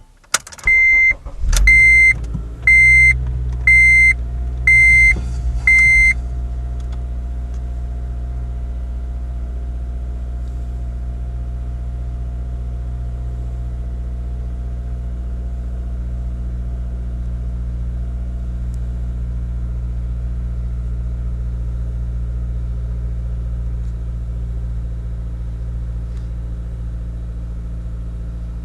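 Honda Civic Si's 2.0-litre four-cylinder engine starting about a second and a half in, then idling steadily, heard from inside the cabin. Over the start a dashboard chime beeps six times, about once a second.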